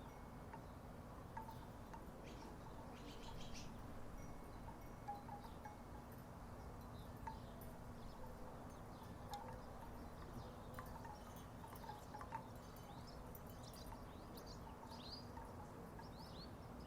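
Wooden tiki wind chimes knocking softly and irregularly, a scatter of hollow wooden clonks.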